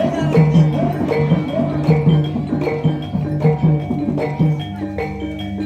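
Javanese gamelan music for an ebeg/jaranan dance: struck metallophones and drums playing a steady, repeating rhythm of bright pitched notes over a low pulse.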